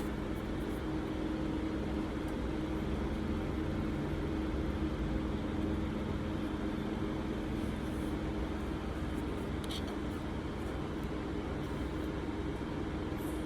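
Steady drone of room fans with a constant low hum, and a few faint light clicks about eight and ten seconds in.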